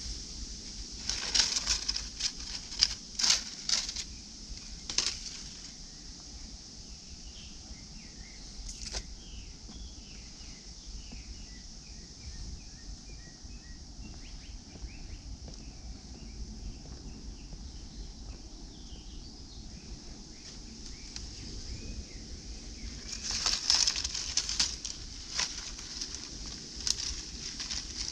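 Outdoor park ambience: a steady high-pitched buzz, with scattered short bird chirps through the middle stretch. Clusters of sharp rustling clicks come in the first few seconds and again near the end.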